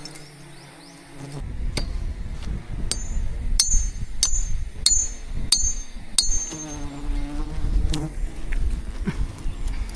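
Bees buzzing close to the microphone, the hum swelling and fading as one flies past about seven seconds in, over a low rumble. In the middle, a short high chirp repeats about every two-thirds of a second, six times.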